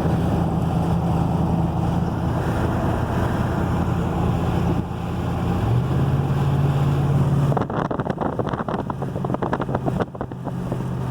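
A vehicle driving, its engine hum and road noise steady, the engine note dropping slightly about six seconds in. From about eight seconds in, a rough irregular crackle runs over it.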